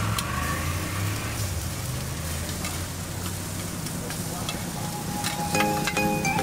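Steady sizzle of food frying on a hot griddle, with scattered light utensil clicks and a low hum underneath. Background music comes back in about five seconds in.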